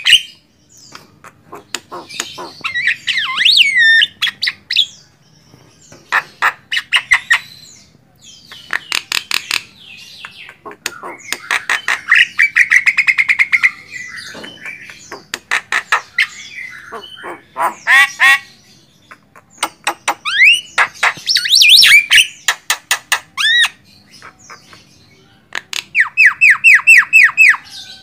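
Javan myna (jalak kebo) calling in short loud phrases: harsh squawks, rapid clicking chatter and buzzy rattles, and whistled notes that sweep up and down, with brief pauses between phrases.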